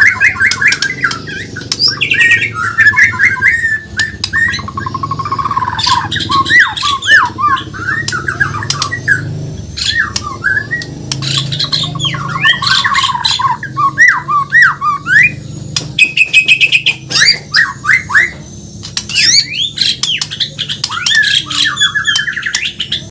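Bornean murai batu (white-rumped shama) singing a long, varied song: fast trills, rising and falling whistles and sharp harsh notes in quick succession, over a low background hum. The song stops abruptly at the very end.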